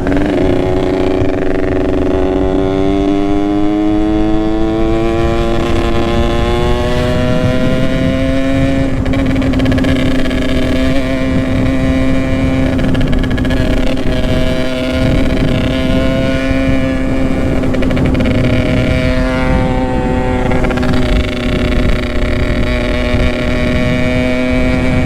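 Yamaha RX-King's two-stroke single-cylinder engine running under way. Its pitch climbs steadily over the first several seconds as the bike gathers speed, then holds fairly steady, with another short rise a little after the middle.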